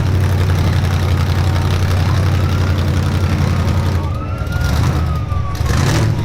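Truck diesel engine running with a steady low drone, while a siren wails faintly over it, rising and falling twice.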